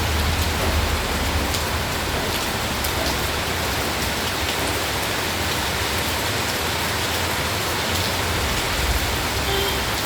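Steady rain falling, a constant hiss with scattered raindrop ticks, over a low rumble.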